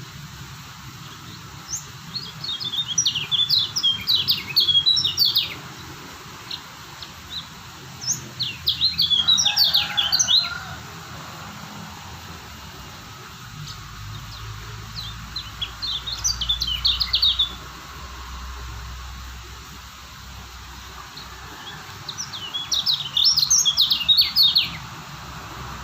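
Lemon-bellied white-eye (kecial kuning) singing in four bouts of rapid, high twittering notes, each a few seconds long, over a low steady background hum.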